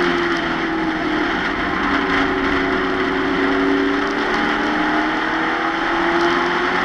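Stock-car Pro Truck engine running at racing speed, heard from inside the cab over heavy road and wind noise. Its pitch drops about two seconds in and climbs again toward the end, as it backs off for a turn and gets back on the throttle.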